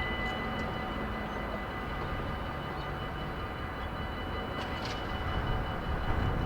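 Train passing over a Dutch level crossing: a steady rumble of wheels on the rails, with a few sharp clicks about four and a half seconds in and the sound growing a little louder near the end.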